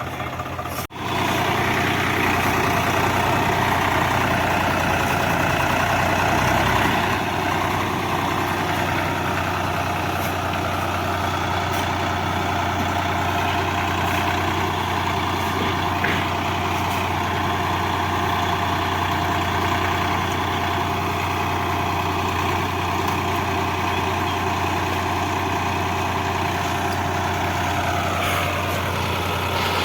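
Swaraj 744 FE tractor's three-cylinder diesel engine running steadily, with a brief dropout about a second in and a falling tone near the end.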